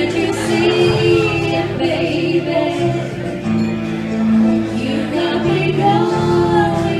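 Live music: a singer holding long notes with vibrato over sustained accompaniment chords.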